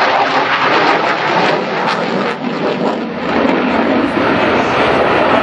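F-16AM Fighting Falcon's jet engine, loud and steady noise as the fighter flies its display, dipping briefly about two and a half seconds in before coming back up.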